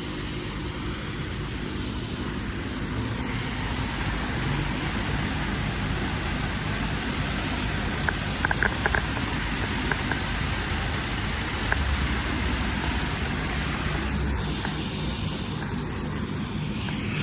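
High-pressure car-wash wand spraying water onto a truck: a steady hiss, with a few short clicks about halfway through.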